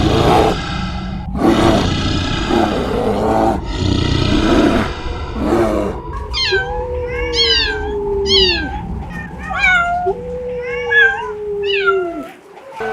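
A cat meowing over and over in short, high calls through the second half. Before that, another animal gives a run of repeated calls, about one a second.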